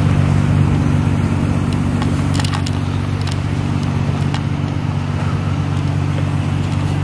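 A car engine idling steadily, with a few light clicks about two to three seconds in.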